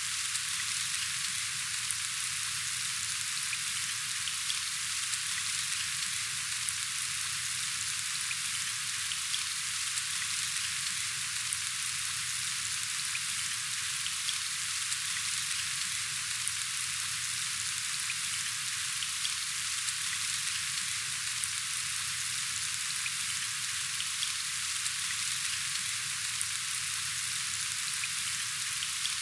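Steady rainfall, an even hiss of drops with tiny scattered ticks of individual drops, unchanging throughout.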